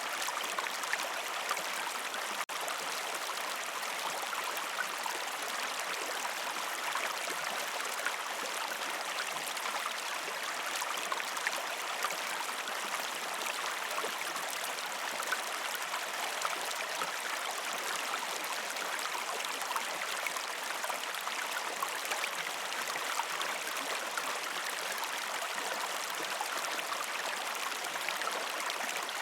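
River stream flowing over rocks: a steady rushing, babbling water sound with small splashes here and there.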